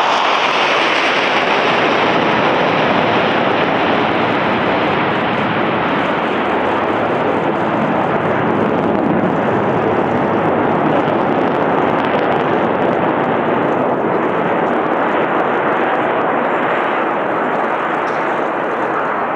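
Jet engine roar from Chengdu J-10 fighters in a formation flypast: a loud, steady rushing roar that eases off slightly near the end.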